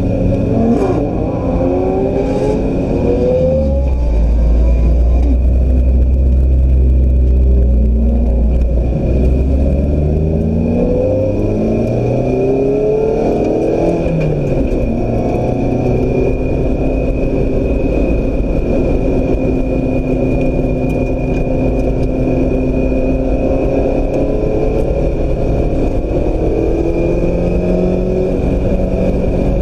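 A 2016 Mazda MX-5 Miata's engine at speed on a race track. Its note climbs in pitch and drops back again and again as it accelerates, shifts and slows. A heavy low rumble is loudest in the first third, the note holds steady for several seconds past the middle, and a constant thin high whine runs underneath.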